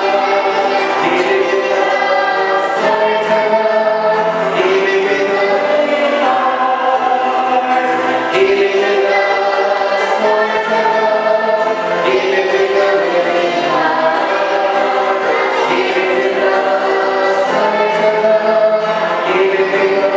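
A group of voices singing a repetitive offering chorus together in harmony, long held notes moving from phrase to phrase.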